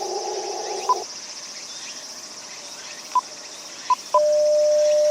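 Amateur radio transceiver audio as the rig is switched to the 10 MHz band. The filtered receiver hiss cuts off about a second in, a few short high beeps follow, and near the end a steady CW tone is held for about two seconds. A steady chorus of crickets runs underneath.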